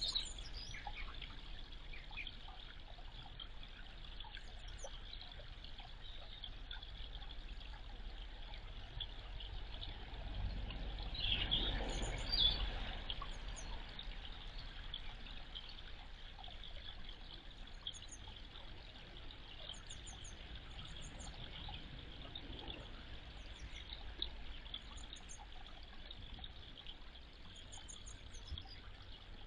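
Small birds giving short, high double chirps at intervals over a steady rushing hiss. The hiss swells louder for a few seconds a little before halfway, then settles again.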